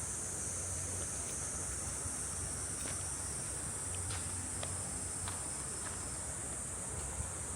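Steady, high-pitched chorus of summer cicadas, with a low rumble and a few faint clicks underneath.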